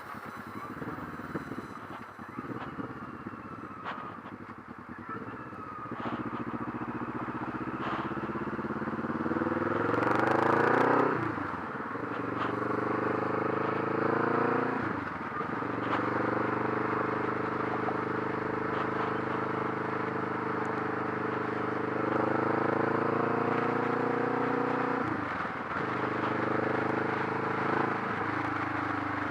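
Kawasaki Vulcan S parallel-twin engine through a Delkevic 8-inch mini slip-on exhaust with the baffle in, heard from the moving bike. It runs low at first, then climbs in pitch under acceleration and drops at upshifts about eleven, fifteen and twenty-five seconds in, holding a steady cruising note in between.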